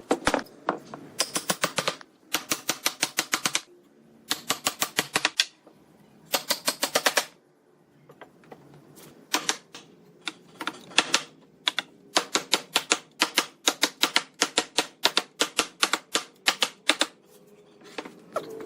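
Rapid sharp clicks, about eight a second, in runs of a second or so with short gaps between, then a longer unbroken run of about five seconds near the end.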